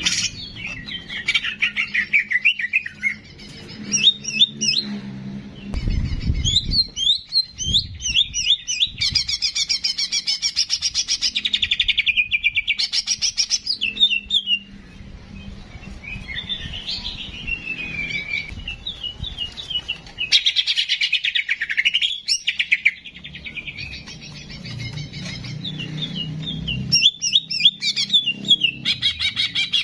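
Songbird singing a long, varied string of quick chirps, rattling trills and sliding whistled notes, as on a cucak jenggot training recording. A faint low hum sits under it, with a low thump about six seconds in.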